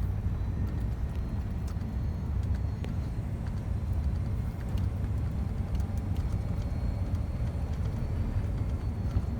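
Scania truck engine running steadily under way, a continuous low drone mixed with road noise.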